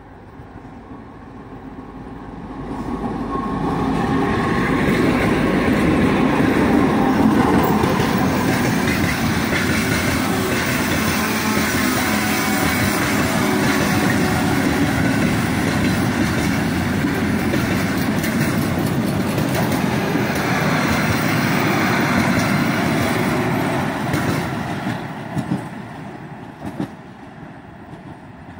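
A 2TE10M twin-section diesel locomotive and its short train of hopper cars passing close by. The locomotive's run builds up over the first few seconds, the wagon wheels click over the rail joints through the middle, and the sound fades near the end as the train draws away.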